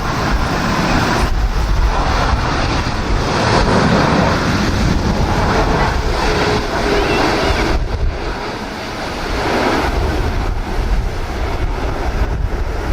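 Strong gusting wind buffeting the microphone, rising and falling, over a steady low rumble.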